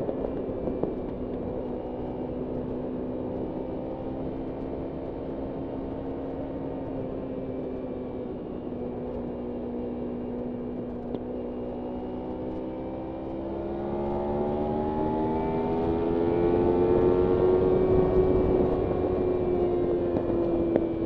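Kawasaki Ninja 300 parallel-twin engine running at nearly steady revs, easing slightly, then rising in pitch and getting louder as it accelerates about two-thirds of the way through, and easing off a little near the end. A rushing noise of riding runs underneath.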